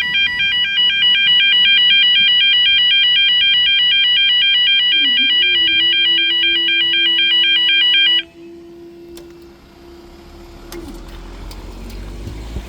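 Level crossing warning alarm sounding as a loud, rapidly alternating two-tone electronic warble, then cutting off suddenly about eight seconds in. A steady low hum joins it about five seconds in and fades out around eleven seconds, followed by a few faint clicks.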